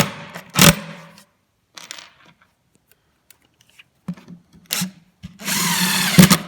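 Knocks and clatter of a drill and screws being handled against a melamine cabinet panel, then near the end a short burst, under a second, of a cordless drill motor driving a screw.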